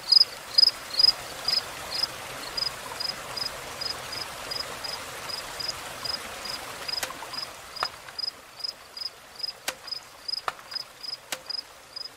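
Cricket chirping steadily, about three high chirps a second, growing fainter, with a few sharp clicks in the second half.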